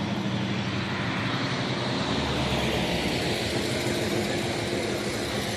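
Car engine running steadily, with a swell of engine and road noise that builds about two seconds in and eases off toward the end.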